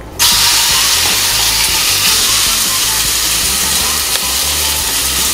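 Seasoned chicken breast pieces dropped into hot coconut oil in a nonstick frying pan, frying with a loud, steady sizzle that starts suddenly as they hit the oil.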